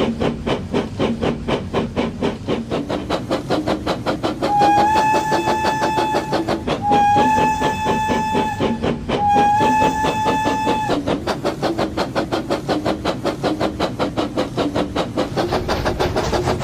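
Toy brick-built steam train sound effect: a steady, fast chuffing, about four to five puffs a second, with three long steady whistle blasts in the middle.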